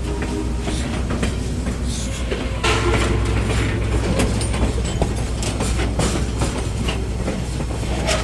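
Passenger train rolling along the track, heard from aboard: a steady low rumble of wheels on rail with scattered clicks and faint squealing tones. The rumble grows louder about two and a half seconds in.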